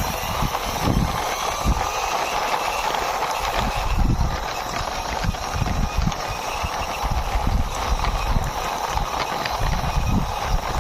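Toy mixer truck pushed by hand along a rough wall, its plastic wheels rolling and rattling with an uneven clatter of small knocks and bumps.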